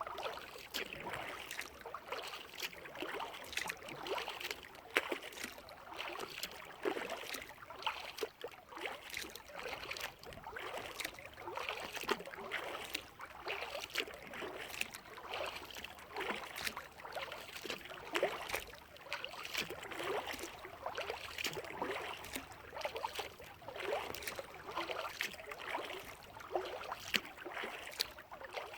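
Kayak paddle strokes in lake water: the paddle dips and splashes with dripping and trickling water, in an irregular pattern of small splashes.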